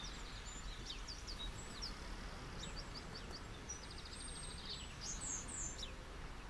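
Small birds chirping over a steady wash of ocean waves, with a quick trill of rapid repeated notes about halfway through.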